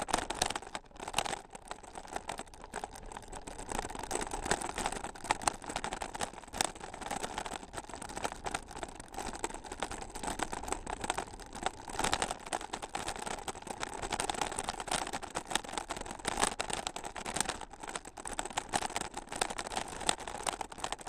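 Bicycle jolting over a rough trail surface: a continuous dense rattling and clatter from the bike and the camera riding on it, with tyre noise underneath.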